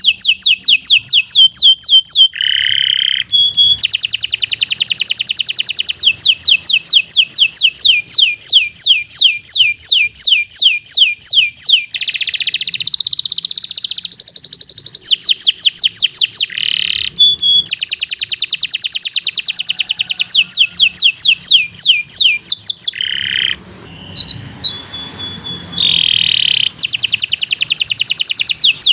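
Domestic canary singing a long, loud song of fast repeated trills, broken by short pauses, with a quieter held note near the end.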